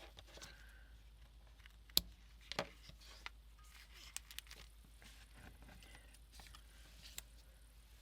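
Paper and packing materials handled on a work table: soft rustling with scattered light taps and clicks, the sharpest knock about two seconds in and a pair of smaller ones just after.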